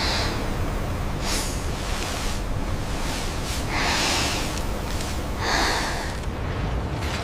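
A person breathing: three loud, rasping breaths over a steady low rumble.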